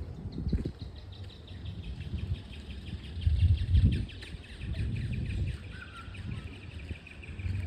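Birds calling in a rapid run of high, repeated chirping notes, over an uneven low rumble that swells about three seconds in.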